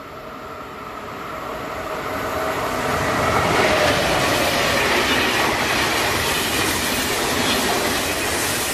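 Thalys high-speed electric train approaching and passing close by. Its rolling noise grows over the first three seconds or so, then holds as a loud, steady rush of wheels on rail.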